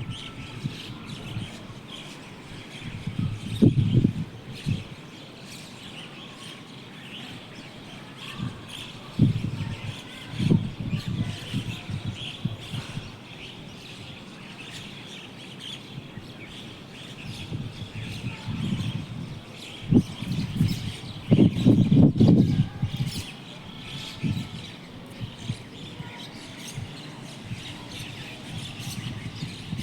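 Many birds chirping at once in a steady, busy chorus of short high calls. Several louder low rumbles break in at intervals, the loudest about three-quarters of the way through.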